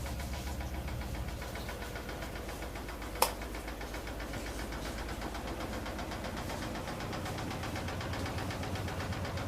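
Arçelik washing machine running with a steady, fast rhythmic knocking and vibration, the fault that the owner says has come back after three repairs. One sharp click about three seconds in.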